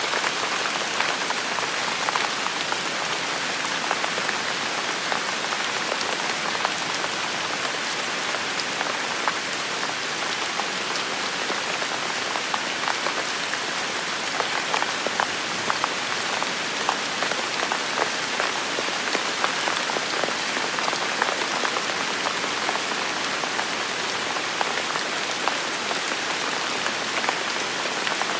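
Steady rain falling, a dense even hiss studded with many small sharp drop hits.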